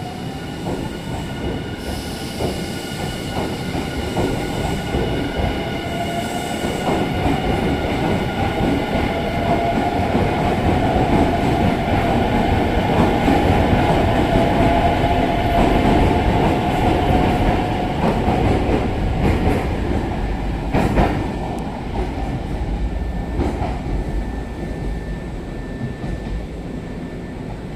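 Nankai 50000 series Rapi:t electric train pulling out of the station. Its traction motors whine with a tone that rises a little as it gathers speed, and its wheels rumble over the rails. The sound builds to its loudest in the middle, with a sharp clack about two-thirds of the way through, then fades as the train leaves.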